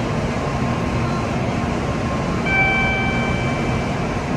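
Steady, even hum and rush of a standing N700-series Shinkansen train and the station around it. About two and a half seconds in, a short pitched electronic tone sounds for about a second.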